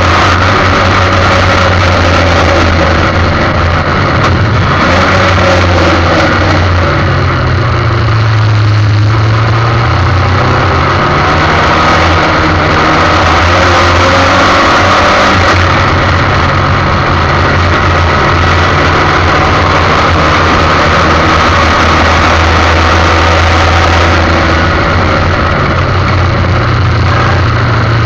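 Formula 1600 single-seater race car engine running loud and continuously, its pitch rising and falling as the revs change through the corners and gear changes.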